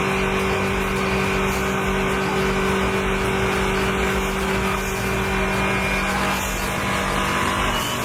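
Heavy transport truck's engine running steadily, a constant unchanging drone.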